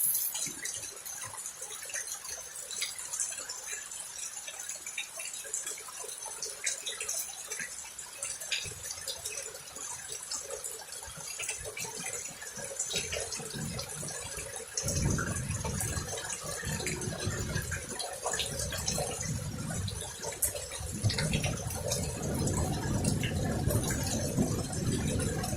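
Heavy thunderstorm rain falling and dripping, with many small drop ticks. From a little past halfway through, low rumbling surges come and go under the rain.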